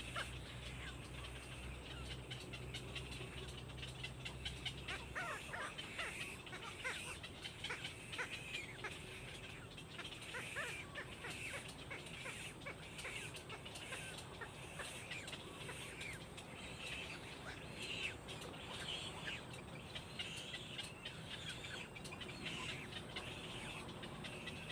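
Birds chirping: many short, high chirps sliding downward in quick succession, with a low hum under them for the first five seconds or so.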